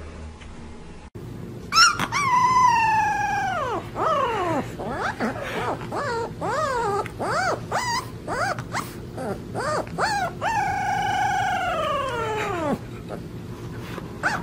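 Husky puppy howling: a long howl that slides down in pitch about two seconds in, a run of short yipping whines, then a second long falling howl near the end.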